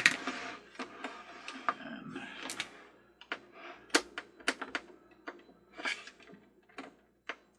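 Hand work with a small screwdriver on the plastic base of a Mr. Christmas ferris wheel. A sharp knock at the start, a couple of seconds of scraping, then a string of separate sharp clicks and taps.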